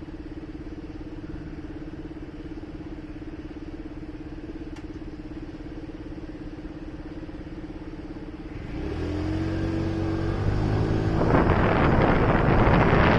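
Motorcycle engine idling steadily, then revving up and pulling away about nine seconds in, its note rising as it accelerates. Wind noise on the microphone builds quickly over the last couple of seconds as speed picks up.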